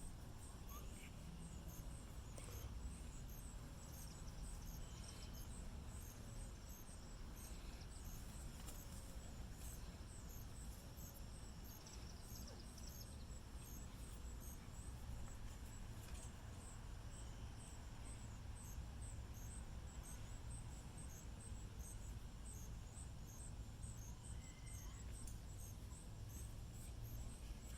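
Cricket chirping steadily, about two short high chirps a second, over a faint low background rumble.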